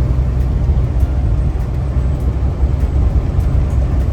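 Steady low drone inside a semi truck's cab as it drives: the diesel engine and road noise running evenly.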